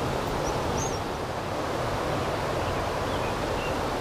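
Steady rush of creek water running over rocks, with a couple of faint, short, high bird chirps, once about half a second in and again near the end.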